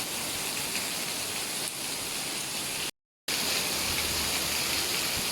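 Heavy rain falling steadily. The sound cuts out completely for a split second about three seconds in.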